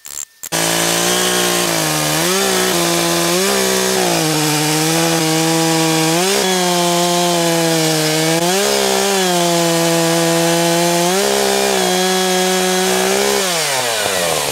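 Echo CS-590 two-stroke chainsaw at high revs, ripping lengthwise through an oak log in a milling cut. It starts suddenly about half a second in, and its pitch dips and recovers several times as the bar loads up in the cut. Near the end the revs fall away.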